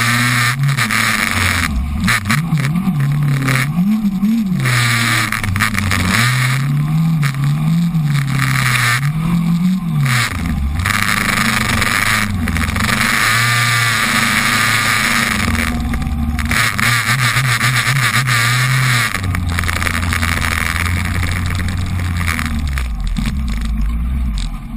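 Suzuki Bandit 1200 motorcycle's inline-four engine revving up and down several times, then running steadier and dropping to a lower pitch near the end, over a steady hiss.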